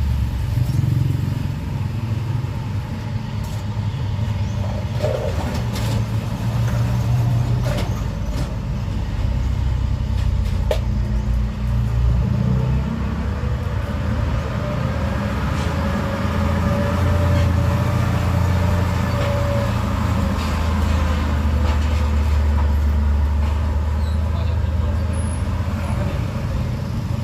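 Road traffic: vehicle engines running close by, a steady low rumble, with one vehicle's pitch rising and falling as it passes about halfway through.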